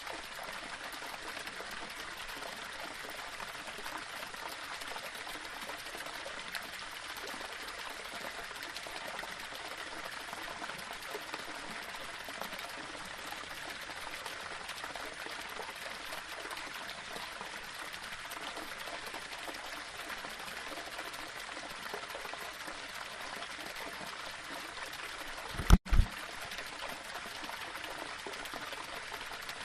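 Small waterfall: water splashing and running steadily over rocks. Near the end a brief, loud low double thump cuts in with a split-second dropout.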